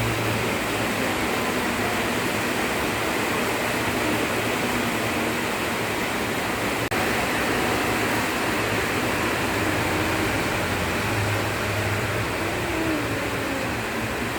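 Steady rush of running water, as used for bathing a cat.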